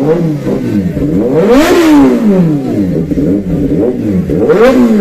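Superbike engines being revved repeatedly, the pitch climbing and dropping back over and over, with two big revs about two seconds in and again near the end.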